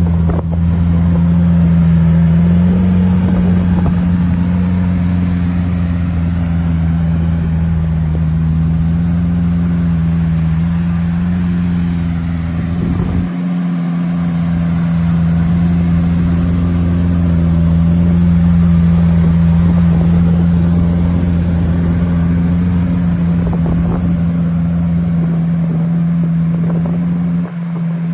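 Car engine running at a steady speed, a constant low hum, briefly dipping twice.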